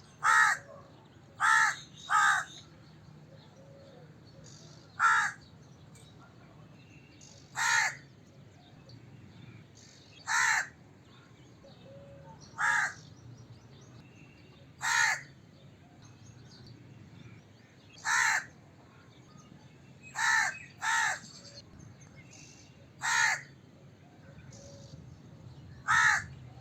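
A crow cawing: short single caws every two to three seconds, some in quick pairs, about thirteen in all, over a faint steady low background noise.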